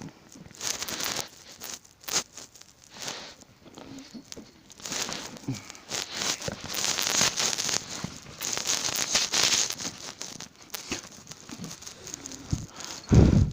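Irregular rustling and scrabbling noises from a cat grappling with a hand, with one dull thump near the end.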